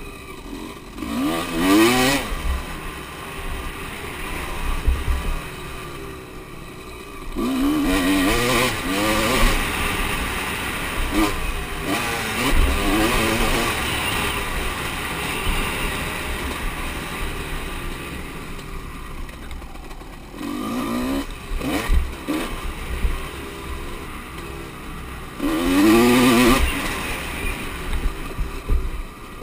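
Motocross bikes racing, their engines revving and accelerating, with the pitch rising in repeated sweeps as riders open the throttle, about five times.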